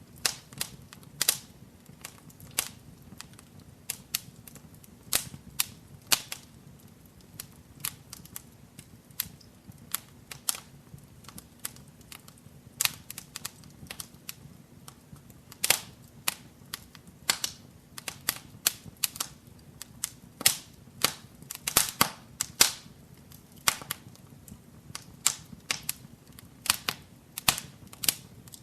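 Wood fire in a fireplace crackling: irregular sharp pops and snaps, several a second and some much louder than others, over a faint low rumble of the flames.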